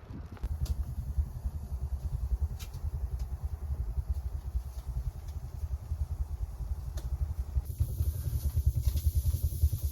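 Storm wind buffeting the microphone: a fluttering low rumble that keeps rising and falling, with a high hiss joining in near the end.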